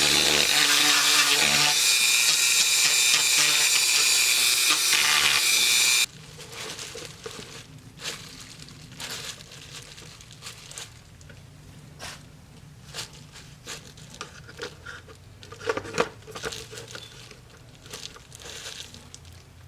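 A handheld power tool running steadily, which cuts off abruptly about six seconds in. It is followed by light, irregular scratching and rubbing strokes on the helmet surface.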